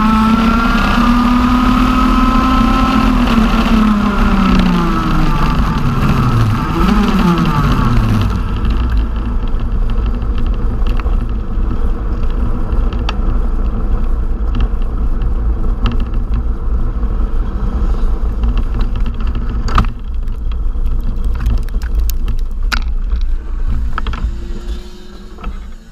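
TM 125 cc two-stroke OK kart engine running at high revs, then the revs fall away steeply twice about five to eight seconds in. After that no engine note stands out, only a steady low rumble with scattered clicks, which fades out near the end.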